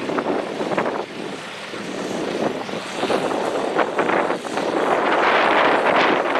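Farm tractor engine running at a tractor pull, getting louder a few seconds in.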